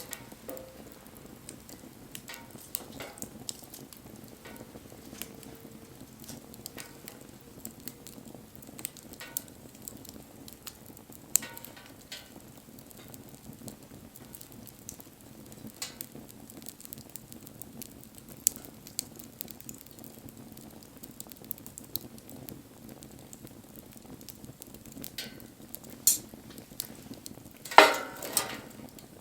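Wood bonfire burning with a low steady rush and scattered sharp crackles and pops, with a louder cluster of pops near the end.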